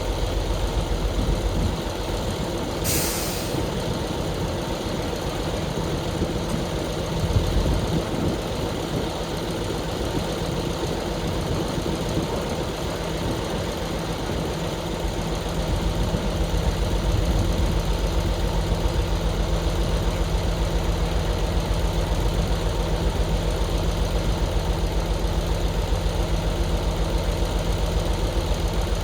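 Heavy diesel engine running steadily, with a short burst of hissing air about three seconds in. From about halfway through, the engine takes on an even, pulsing beat.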